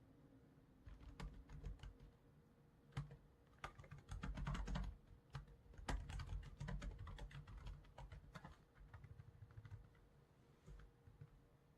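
Computer keyboard typing: quick key clicks in irregular runs, densest around the middle and thinning to scattered taps near the end, over a faint steady hum.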